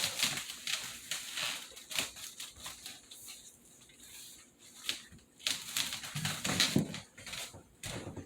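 Irregular clicks, knocks and rustling of a window blind being handled while it is put up onto its mounting brackets.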